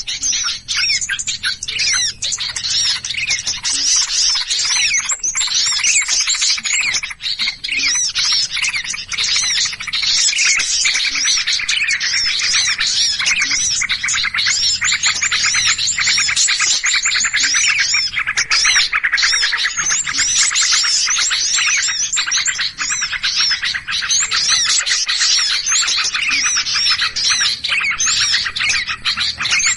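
Many small birds calling at once in a dense, unbroken chatter of rapid, overlapping chirps and twitters: a bird-lure recording of agitated, noisy small birds.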